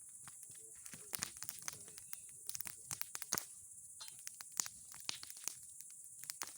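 Bonfire of old boards and pine cones crackling, with irregular sharp pops and snaps of varying strength over a steady hiss.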